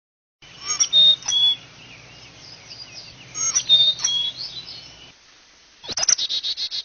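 Small birds chirping and tweeting in two quick flurries, then a fast run of about ten repeated sharp notes near the end.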